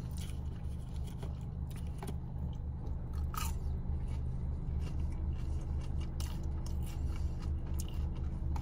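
A person chewing and biting a McDonald's chicken nugget, with scattered small mouth clicks, over a steady low hum.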